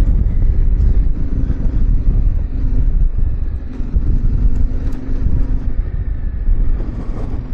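Yamaha Ténéré 700's parallel-twin engine running steadily as the motorcycle rides on, under a heavy low rumble of wind and road noise.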